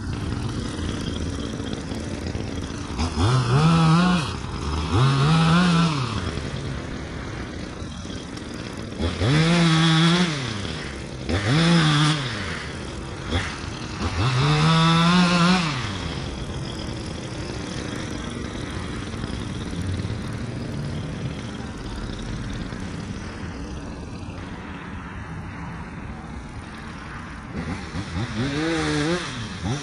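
Echo two-stroke saw engine idling, revved up six times in short bursts, each rising and falling over one to two seconds. Five revs come close together in the first half, a long stretch of idle follows, and one more rev comes near the end.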